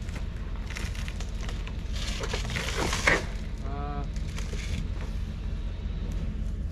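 Tree branches crackling and snapping as a roped section of a storm-felled tree is lowered down through the limbs, with one sharp crack about three seconds in. A vehicle engine idles underneath.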